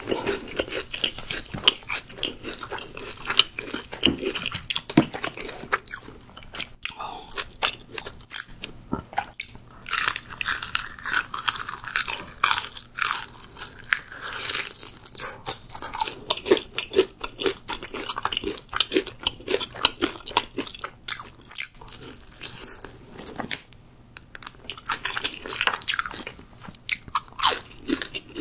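Close-miked crunching bites and chewing of crispy seasoned fried chicken, a rapid irregular crackle of breaking crust with wetter chewing between.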